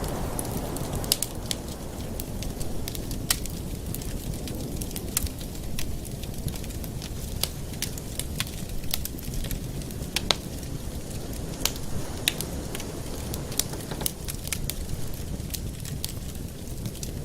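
Wood fire burning in a fireplace, crackling with irregular sharp pops over a steady low rush.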